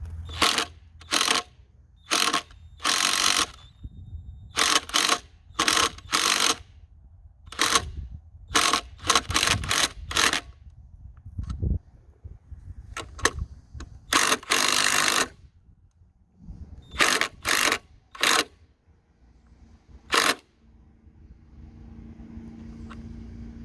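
Impact driver driving lag bolts into a log in many short bursts of hammering, stopping and starting, as the guide boards of a chainsaw mill are fastened down.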